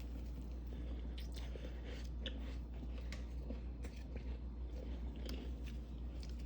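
Crispy freezer frost being bitten and chewed close to the microphone: a run of small, irregular crunches.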